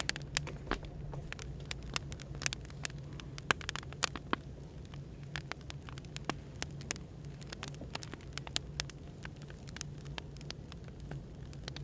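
Firewood crackling, with irregular sharp pops over a steady low hum of café background noise.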